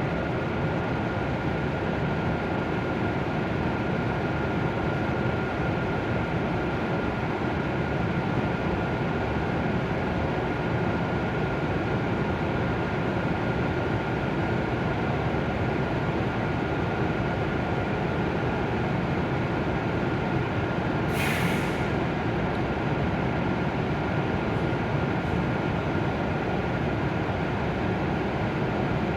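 W7 series Shinkansen train at the platform: a steady hum of running equipment with a constant high whine. About twenty-one seconds in there is a short hiss of air.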